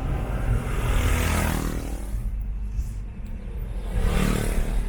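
A motor vehicle's engine and road rumble, swelling louder about a second in and again near the end.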